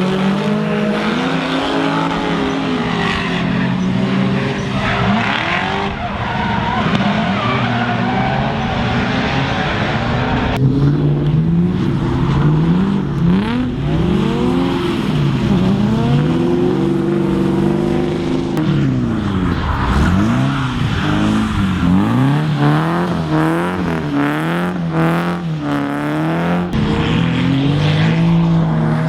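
Drift cars' engines revving up and down again and again as they slide, with tyres squealing and skidding on a wet track. The sound changes abruptly about ten seconds in, as from one car or pass to another.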